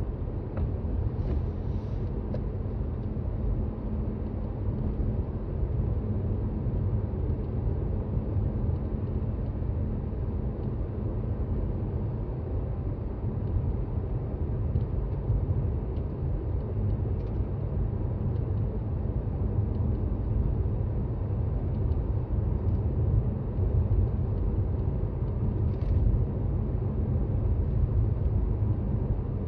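Toyota Raize compact SUV driving on snow-covered roads: a steady low rumble of tyres and engine. A couple of faint, brief higher-pitched sounds come through, once near the start and once near the end.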